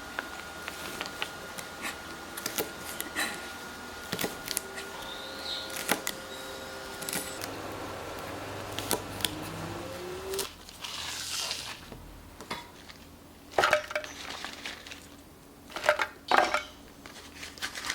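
Dishes and kitchen utensils being handled: scattered light clinks and knocks, with a few louder clatters in the second half.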